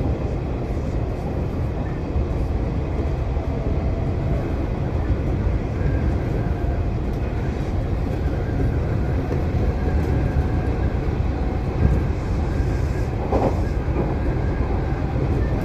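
Kintetsu electric train running along the line, heard from on board: a steady low rumble of wheels on track with a faint motor whine, and a brief knock about twelve seconds in.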